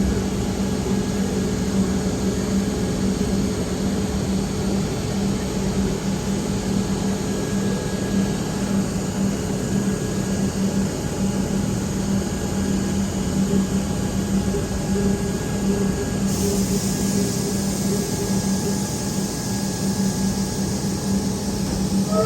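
A train's steady mechanical hum with a constant low drone, as it stands or runs steadily with no wheel clatter. The noise turns brighter and hissier about sixteen seconds in.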